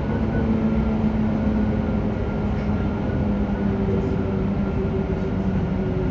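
Running sound heard on board JR Hokkaido 731-series EMU car MoHa 731-109: a steady low drone from the traction motor that sinks slightly in pitch, over an even rail rumble. The drone is an abnormal roar from the motor on the car's Otaru-end bogie, likened to the sound of an old nose-suspended (tsurikake) motor.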